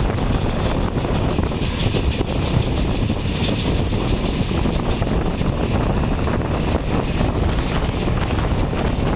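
Passenger train rolling past at close range, a steady, loud rumble of coaches on the rails, with heavy wind buffeting the microphone.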